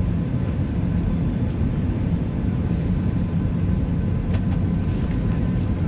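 Steady low rumble and hum inside an Airbus A320 passenger cabin during pushback from the gate, with a faint click about four seconds in.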